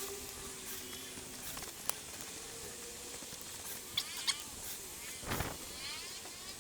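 A few light, sharp clicks and taps, with a duller knock about five seconds in, from small parts being handled and fitted while reassembling a motorcycle fork.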